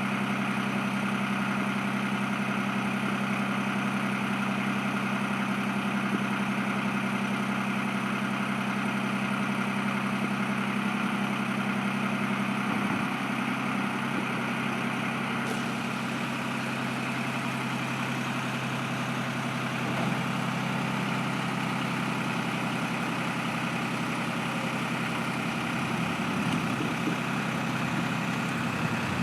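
A motor running steadily with a constant low hum, its tone shifting slightly about 13 and 20 seconds in.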